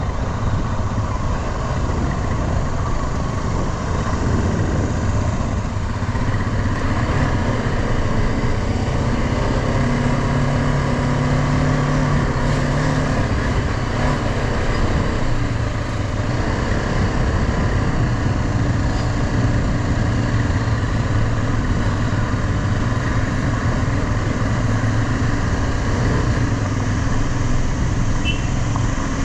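Motorcycle engine running under way, with steady wind and road noise; the engine note shifts briefly about ten seconds in, then settles again.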